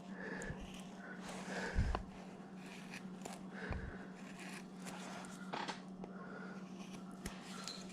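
Large carving V-tool pushed by hand through wood, making faint, intermittent scraping cuts with a few light clicks, the tool dragging a little in the cut.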